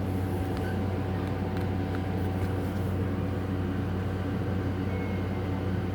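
Steady low machine hum with a faint steady whine above it and a few faint light ticks.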